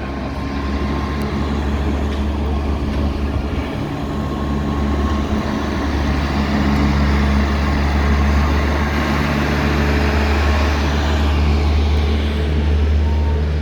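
Steady low rumble and hum of a moving Walt Disney World monorail, heard from inside the car, with an even hiss of air and running noise that grows a little louder partway through.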